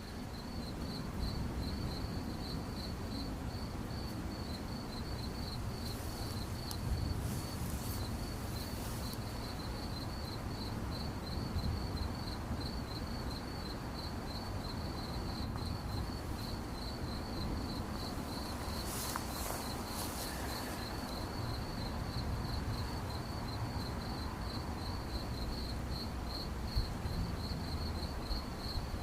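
A cricket chirping steadily in a rapid, even pulsing trill on one high pitch, over a low background rumble.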